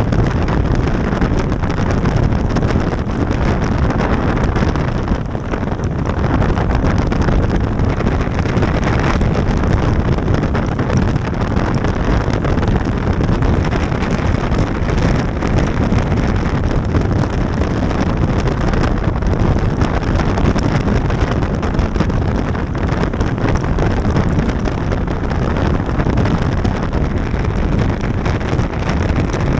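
Motorcycle riding at speed: steady wind rushing over the microphone, mixed with engine and road noise.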